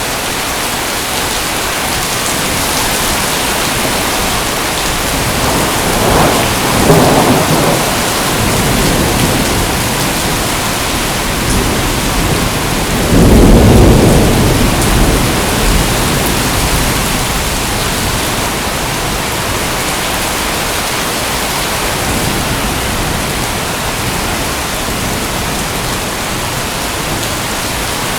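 Steady heavy rain with two rolls of thunder, one about six seconds in and a louder, deeper one about thirteen seconds in.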